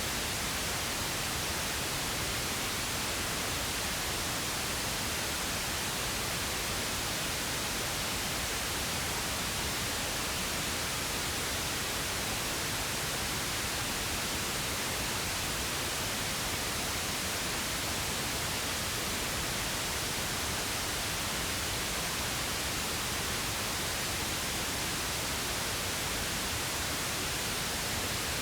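Steady pink noise: an even, unchanging hiss across the whole range, with no events or changes.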